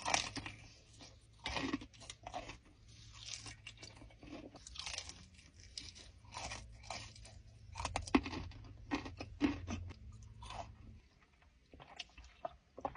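Close-miked eating: irregular crisp bites and chewing of crunchy fried food, several louder bites along the way. A low steady hum underneath stops about two seconds before the end.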